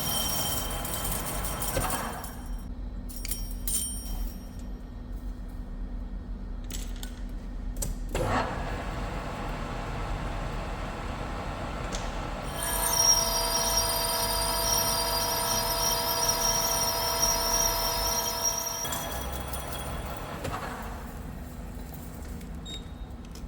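Metal lathe turning the outside diameter of a steel plate with a carbide insert: a steady machine hum under high, ringing cutting tones. The cutting tones fade early, then return strongly for several seconds about halfway through before dying away.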